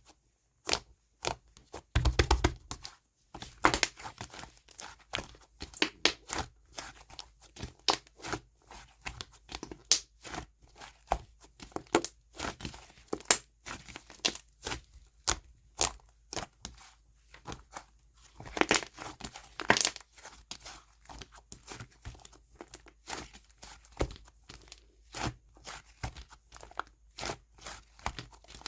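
Clay-mixed slime being pressed, poked and stretched by hand, giving a dense run of sharp crackling pops and clicks, louder in clusters about two seconds in and around twenty seconds in.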